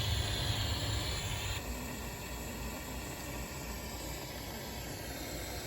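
Small handheld butane torch burning with a steady hiss while heating heat-shrink tubing on a crimped wire connector. It eases slightly about a second and a half in.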